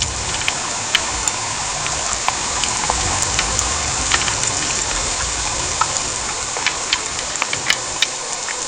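Heavy rain pouring steadily, a dense hiss with many distinct drop ticks and splats, over a low rumble that drops away near the end.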